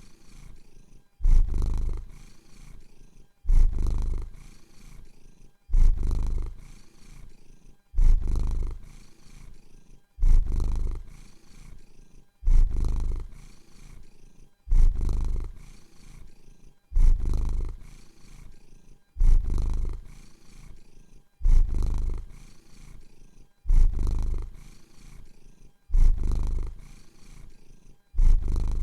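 A domestic cat purring close to the microphone, the purr surging sharply and then fading in a steady cycle about every two seconds.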